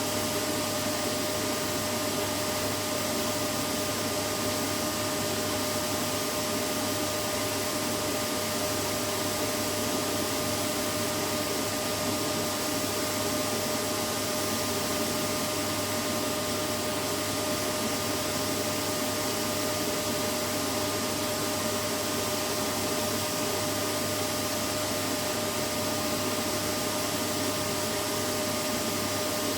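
Vacuum cleaner running steadily: an even whooshing rush with a constant motor whine, unchanging throughout.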